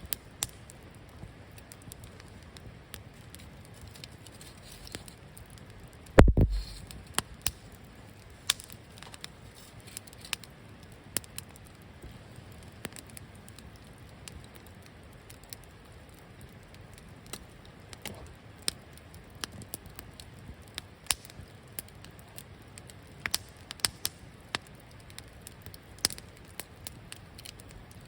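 Wood campfire crackling, with scattered sharp pops throughout. A single heavy, deep thump about six seconds in is the loudest sound.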